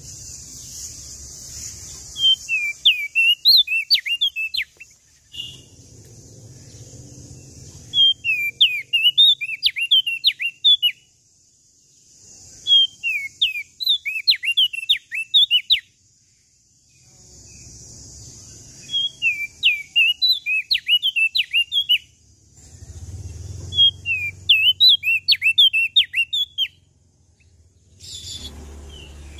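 A prenjak daun Lombok songbird singing in repeated phrases, each a quick run of high, rapidly rising and falling chirped notes lasting two or three seconds, with short pauses between them.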